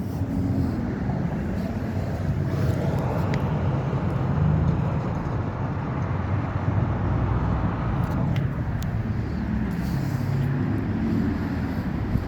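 Road traffic going by: a steady rumble of passing cars that swells and fades as vehicles pass, with a few brief clicks about eight seconds in.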